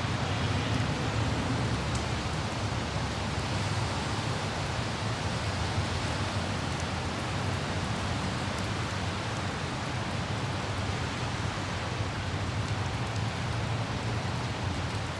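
Steady light rain hiss over a constant low road or traffic rumble, with faint scattered raindrop ticks.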